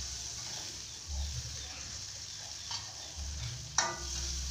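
Chicken feet with green chilli frying in oil in a pan, a steady sizzle, stirred with a metal spatula. A sharp knock of the spatula against the pan near the end.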